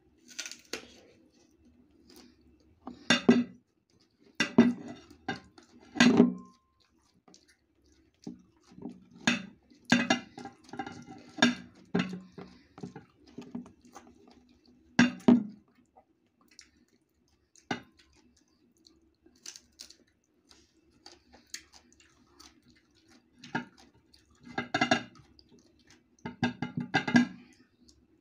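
Close-up crunching and chewing of crisp green mango slices, in bursts every few seconds as bites are taken, with light clinks of a ceramic bowl.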